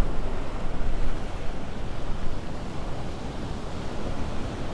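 Storm surf washing up the beach under a strong wind, heard as a steady rush of noise with wind rumbling on the microphone.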